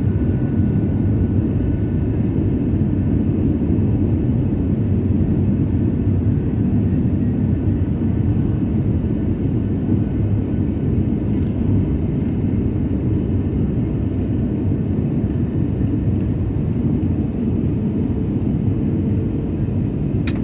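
Steady in-flight cabin noise of an Airbus A320neo with Pratt & Whitney PW1100G geared turbofans: an even low rumble of engines and airflow, unchanging throughout.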